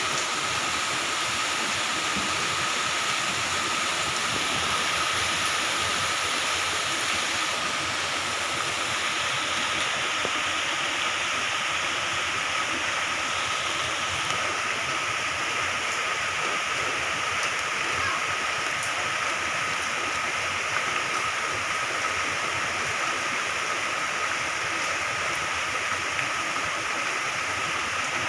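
Moderate to heavy rain falling steadily, a dense even hiss of rain and running water with no let-up. A thin steady high tone runs underneath it.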